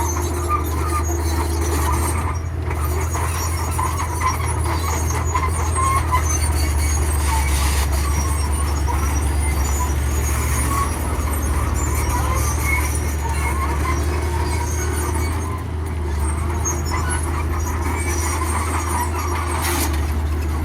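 Radio-controlled model dump trucks and bulldozer running: a steady low hum of small motors with scattered squeaks and grinding from the moving parts.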